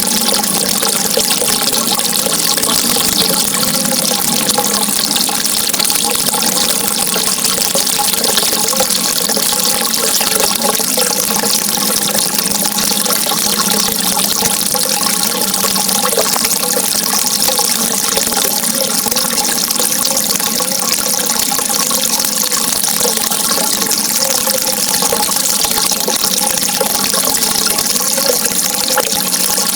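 Steady running water, an even rushing flow with small gurgles through it.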